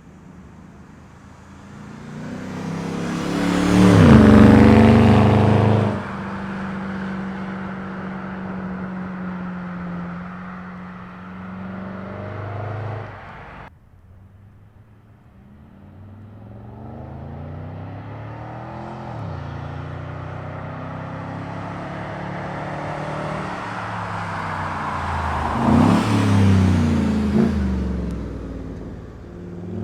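2010 Ford Crown Victoria Police Interceptor's V8 running through a freshly fitted custom exhaust, accelerating hard to a loud peak about four seconds in and then running steady. It drops off abruptly about fourteen seconds in, then builds up again to a second loud surge near the end.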